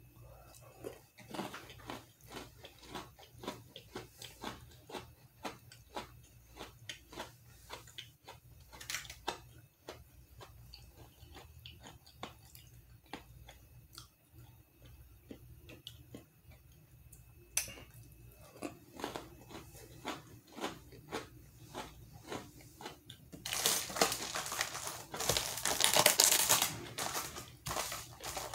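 Close-up chewing of Java chip Oreo cookies dunked in milk: a run of short crunching chews, about two a second. Near the end comes a louder crackling stretch, the crinkle of a plastic snack bag being handled.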